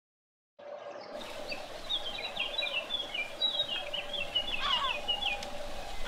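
Outdoor ambience with birdsong: a bird's rapid run of high chirping notes, then a few quick falling calls near the end, over a steady low hum.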